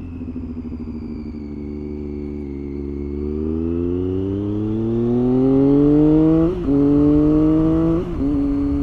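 Triumph Street Triple 675's inline three-cylinder engine accelerating under way, its pitch rising steadily through a gear, then two quick upshifts, about six and a half and eight seconds in, each dropping the pitch before it climbs again.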